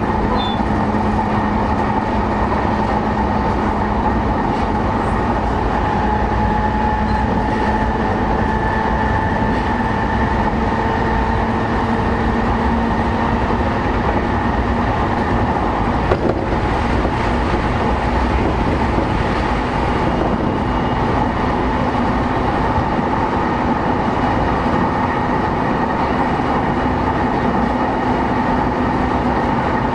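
Running noise inside an E233 series 5000 electric commuter train travelling at steady speed: a continuous rumble of wheels on rail with even, steady motor tones. A single short knock comes about sixteen seconds in.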